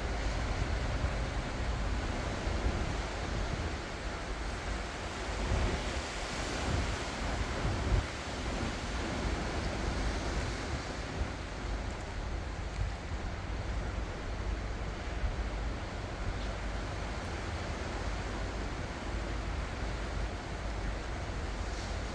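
Ocean surf: waves breaking and washing in, with a bigger swell building and falling away about a third of the way through. Wind buffets the microphone, adding a low rumble.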